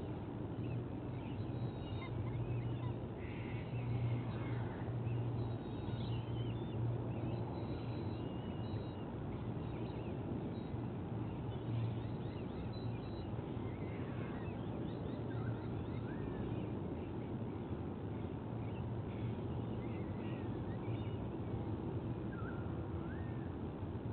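Steady outdoor rumble with a constant low hum, and scattered faint high bird calls and short whistles over it.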